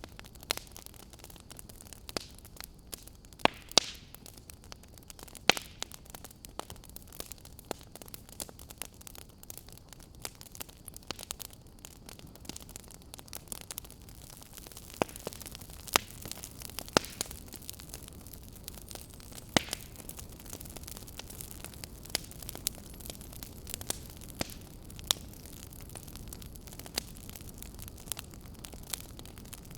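Wood fire in a fireplace crackling: irregular sharp pops and snaps over a steady low hiss of burning, with a few louder pops around four seconds in and again around sixteen to twenty seconds in.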